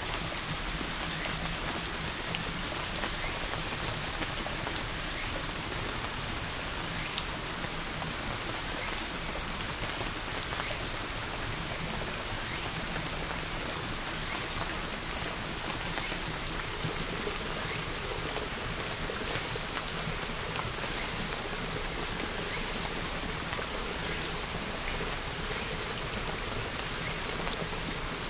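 Steady rain: an even hiss of falling rain with scattered light drop ticks, unchanging in level.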